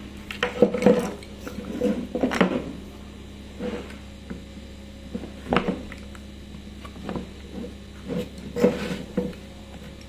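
Irregular knocks, clicks and rubbing from parts being handled during a bench repair, over a steady low hum.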